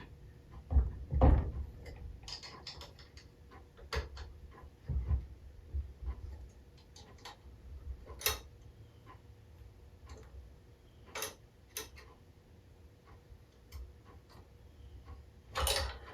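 Metal parts and hand tools being handled during engine assembly: irregular clicks, taps and knocks, the loudest about a second in and another near the end.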